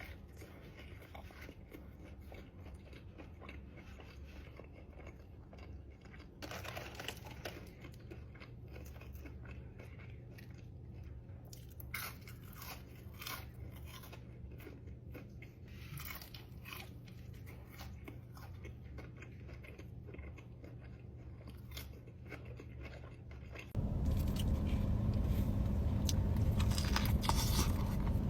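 Close-miked eating: a person biting and chewing food, with scattered sharp crunching clicks over a low steady hum. Near the end a much louder low rumble comes in.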